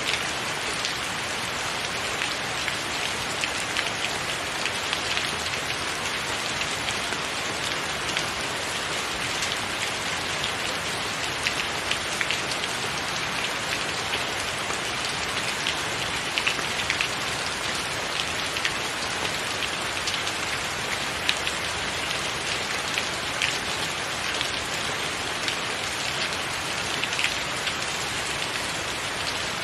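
Steady rain falling on a tiled roof: an even hiss with many sharper drop hits scattered through it.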